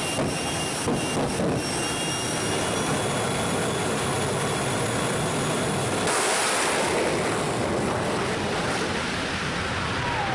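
Jet dragster's turbine engine running, a steady rushing noise that turns suddenly brighter and hissier about six seconds in.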